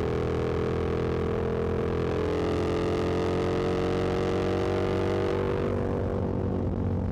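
Yamaha MT-07's parallel-twin engine running under way, its pitch rising slowly as it pulls, then easing off about six seconds in as the rushing hiss on top drops away.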